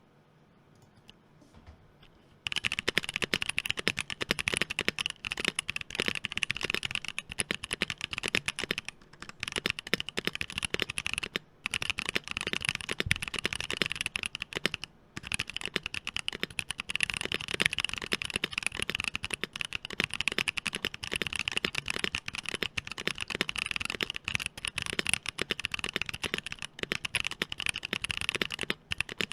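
Continuous fast typing on a Bakeneko60 mechanical keyboard with Boba U4T tactile switches and dye-sublimated PBT keycaps: a dense stream of key clacks. It starts about two seconds in, with a few brief pauses.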